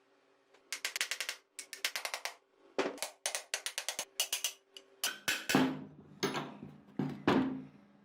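Quick runs of sharp clicks, about eight a second, then scattered taps and, from about five seconds in, several heavier knocks that ring briefly: hand tools working on the metal parts of an old electric fan.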